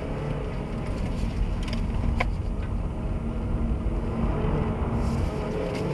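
Car engine running under way, heard from inside the cabin along with road and tyre rumble, as the car is driven through a cone slalom; the engine note holds steady for a few seconds, then starts to climb near the end.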